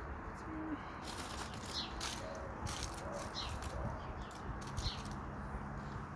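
A small bird calling outdoors, a short falling chirp repeated every second or two, over scattered sharp clicks and crackles and a low background rumble.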